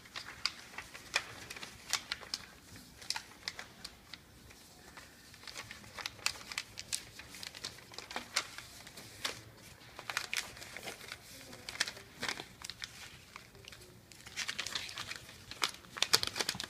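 Sheets of paper being folded and creased by hand into paper airplanes: irregular crinkling and sharp crackles of the paper, busiest in the last few seconds.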